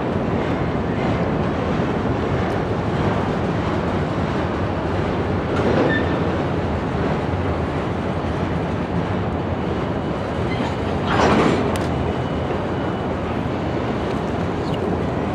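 Freight boxcars rolling slowly through the rail yard: a steady rumble and rattle of steel wheels on rail, swelling briefly about six seconds and eleven seconds in.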